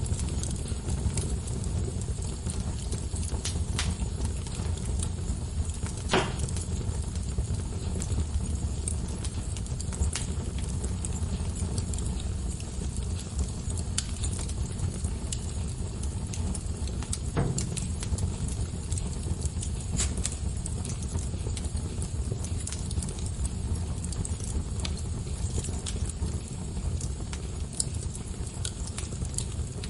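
Wood fire in a fireplace burning with a steady low rumble and scattered crackles, with two louder pops about six seconds in and again past the middle.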